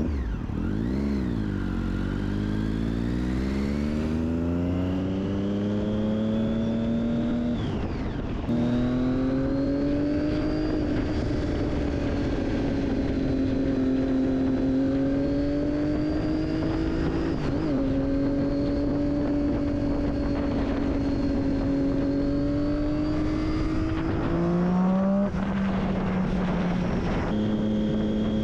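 Triumph Daytona 675 inline-three engine through an Akrapovic exhaust, heard while riding. The engine note climbs for about seven seconds under acceleration, breaks for a gear change, then holds a nearly steady cruise with small rises and dips. Near the end it climbs briefly, drops sharply at another upshift, and steps up again.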